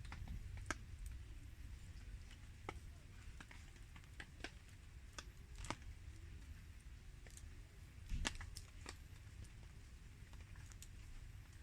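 Wood campfire crackling with sparse, irregular sharp pops, a louder cluster about eight seconds in, over a soft steady hiss of falling rain.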